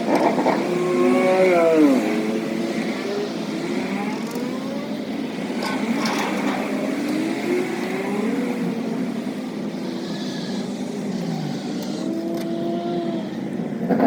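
Motor vehicle engines running, their pitch rising and falling several times as they speed up and slow down, over steady road noise.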